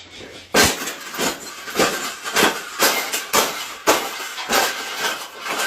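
A series of sharp knocks or bangs, about two a second, each with a short ringing tail.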